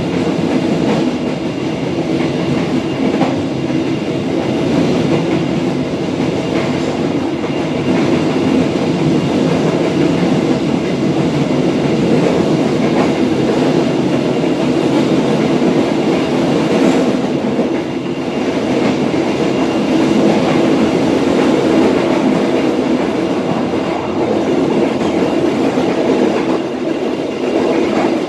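Passenger train's wheels running on the rails, a steady rolling noise heard from inside the rear car as the train picks up speed from about 43 to 60 km/h.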